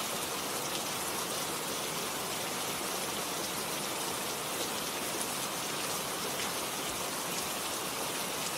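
Steady rain falling: a dense, even hiss with a few individual drop hits standing out.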